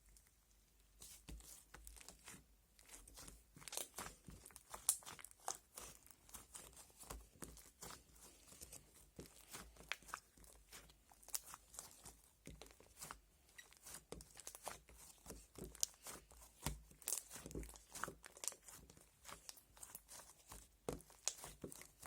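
Bubblegum slime being squished and stretched by hand: a dense, irregular run of small sticky clicks and pops, starting about a second in.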